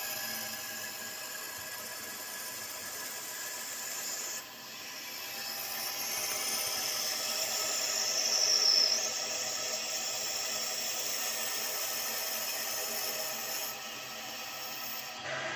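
1700F3U CNC lathe turning a part: a steady machine whine with the scraping of the cutting tool on the work. It swells to a louder, high-pitched cut about halfway through, and the sound drops abruptly twice.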